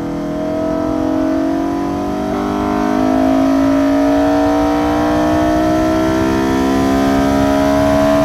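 Honda S2000's F20C four-cylinder VTEC engine accelerating hard in third gear with a K&N FIPK open-cone intake, its note climbing steadily in pitch with loud induction noise. About two and a half seconds in the note turns louder and harder-edged as the revs keep rising.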